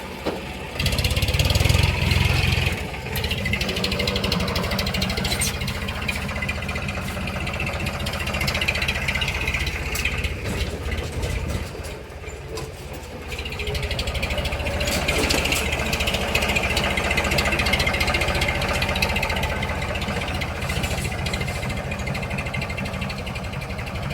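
Tractor diesel engine running, working harder and louder about a second in and again about halfway through.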